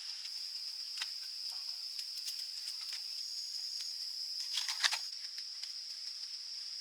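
Steady high-pitched drone of insects, with scattered small clicks and a short cluster of sharper clicks about five seconds in.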